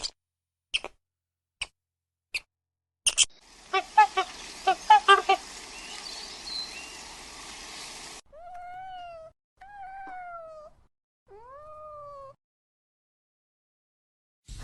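A series of sharp clicks, then several short pitched chirps over a faint hiss, then three separate drawn-out animal calls, each rising and then falling in pitch.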